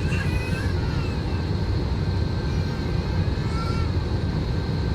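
Airliner on its landing approach: a steady low rumble of jet engines and airflow with an even level throughout, and a faint high tone above it.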